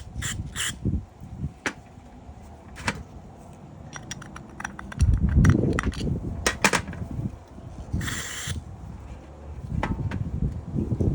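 Small parts and tools clicking and tapping during hands-on work on a motorcycle carburetor, with low handling noise and a short hiss about eight seconds in.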